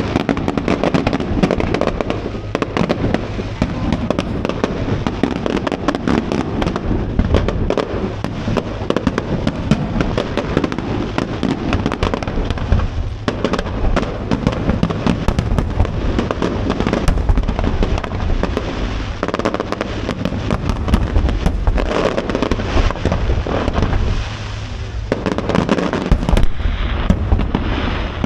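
A fireworks display going off in a dense barrage of bangs and crackles, with a brief lull near the end before it picks up again.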